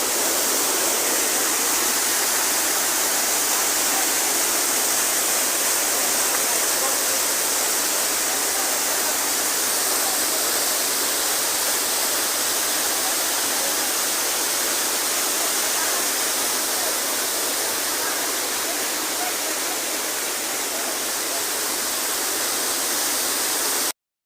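Waterfall rushing, a steady, even roar of falling water with no change in level; the sound cuts out abruptly at the very end.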